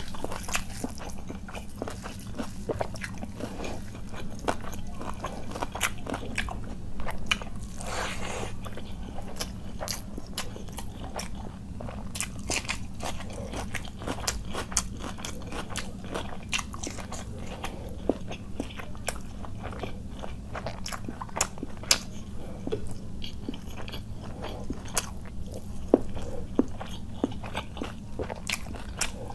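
Close-miked eating sounds: wet chewing, lip smacks and mouth clicks from a person eating khichuri and chicken curry by hand, with sticky squelches of fingers working the rice and gravy. The clicks come densely throughout, over a steady low hum.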